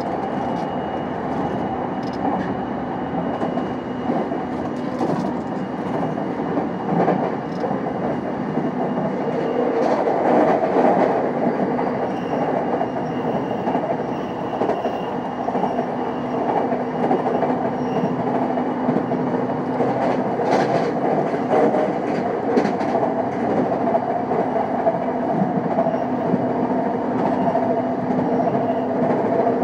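JR East E233 series 5000 electric commuter train running: a steady rolling roar of wheels on rail with a steady hum and a few sharp clicks from the track.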